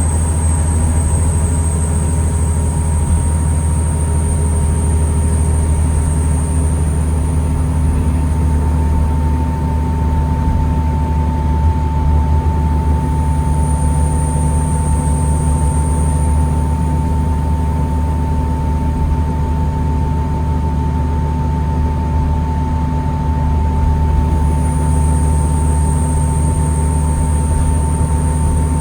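Diesel engine of a 2009 New Flyer D40LFR transit bus idling steadily with a constant low rumble. A steady mid-pitched tone runs over it, and a thin high whine drops out partway through and comes back near the end.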